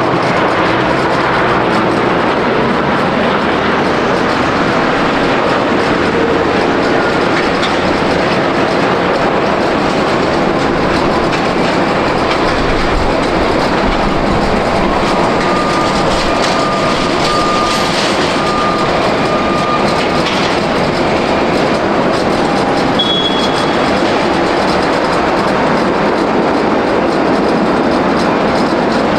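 Jet airliner engine noise close to the runway: a loud, steady, even rush that holds at one level throughout.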